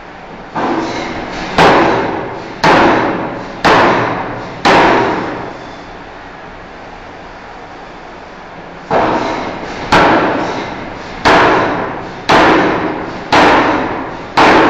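Heavy forging hammer striking a steel bar in two series of blows about a second apart, each blow ringing briefly. Five blows, a pause of about four seconds, then six more, over a steady shop hum.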